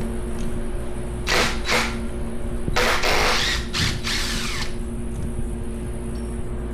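A power tool run in short bursts, two brief ones and then a longer cluster of three, while the power steering pump is unbolted from a Ford 5.4 2V V8 during teardown.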